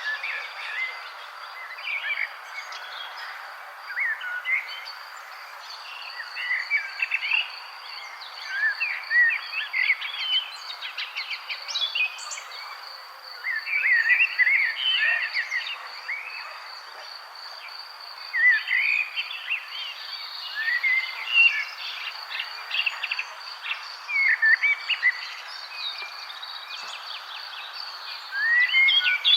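Several birds chirping and trilling in irregular bursts over a steady, rapidly pulsing insect chirr, likely crickets, with a low wash of background noise.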